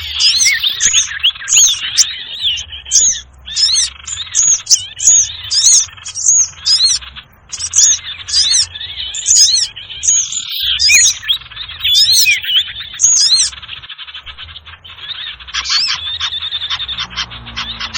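Recorded lure call of small birds: a noisy, continuous chorus of short, high, rapidly rising and falling chirps, several a second, with a brief break about ten seconds in and softer, denser twittering near the end.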